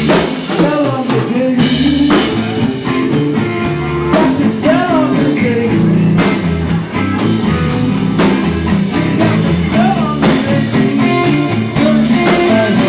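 Live rock band playing an instrumental passage: an electric guitar lead with bent notes over bass guitar and drum kit.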